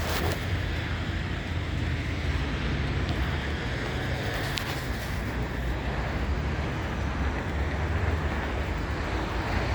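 Steady low rumble of city street traffic, with a faint click near the start and another about halfway through.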